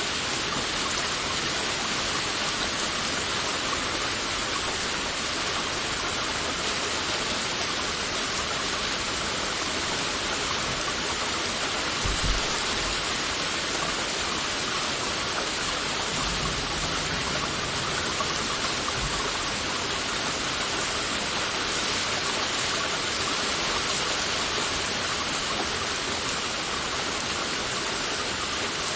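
Heavy rain falling steadily in a dense, even hiss of drops, with a brief low thump about twelve seconds in and a low rumble a few seconds later.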